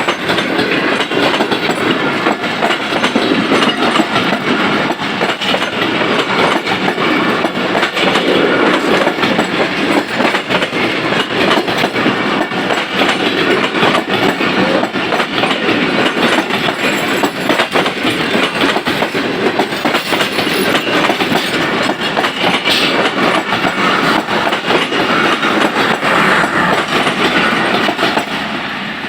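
Passenger train passing close by at speed: a steady loud rumble with the wheels clattering over the rail joints.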